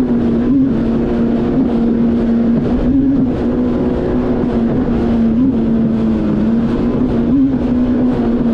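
Yamaha VX Cruiser H.O. WaveRunner engine running steadily at high speed, with rushing wind and water. Its pitch briefly jumps up and settles back about four times, about a second in, around three and five seconds in, and near the end.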